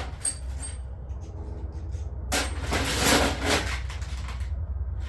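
Metal hand tools clinking and rattling as they are rummaged through: a sharp ringing clink just after the start, then about two seconds of dense clattering, over a steady low hum.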